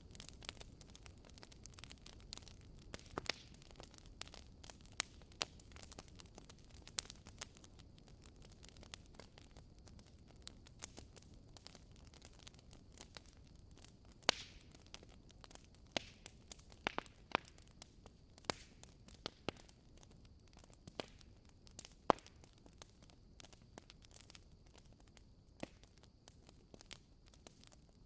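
Wood fire burning in a fireplace: irregular sharp crackles and pops from the burning logs over a low, steady hiss of the flames.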